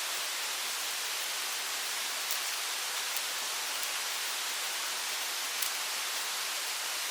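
A mountain stream rushing steadily, with a few faint sharp clicks over it.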